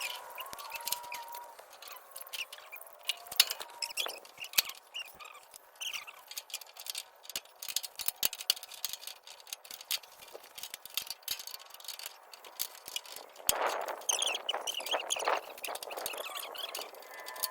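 Irregular metal clicks and clinks of hand tools working the hood bolts on a 1953 Ford Golden Jubilee tractor, with short high squeaks between them and a louder stretch of rattling near the end.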